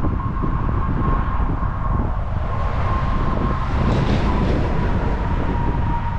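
Train passing close by: a continuous loud rumble of wheels on rails, with a thin steady whine that drifts slightly lower.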